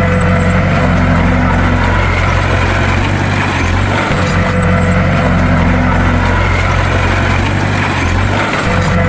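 Bulldozer's diesel engine running with a steady low drone. Its tone shifts in a repeating cycle about every four and a half seconds.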